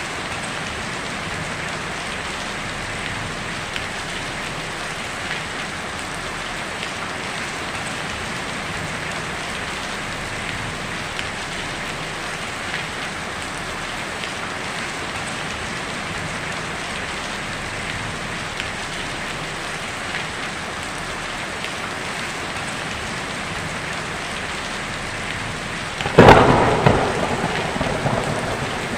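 Heavy rain drumming steadily on a tin roof, with a sudden loud thunderclap near the end that dies away over a couple of seconds.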